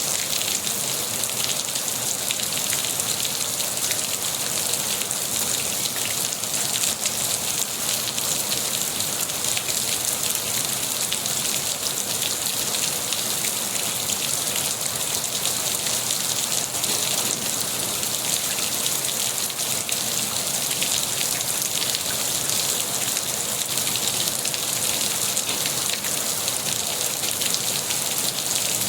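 Steady rain falling, a dense even hiss of many fine drops on a surface.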